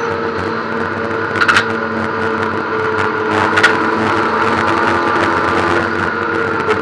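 Ford Puma cup race car's four-cylinder engine running at fairly steady revs, heard from inside the stripped-out cabin at speed. Two short sharp clacks come about two seconds apart.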